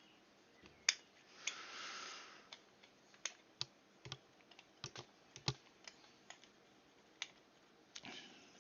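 Small threaded compressor air fittings being handled and screwed together by hand: scattered light clicks and taps at irregular intervals, with a brief rustle about one and a half seconds in.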